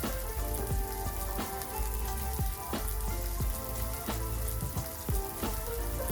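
Food sizzling on a grill over a wood fire, with frequent sharp pops and spits.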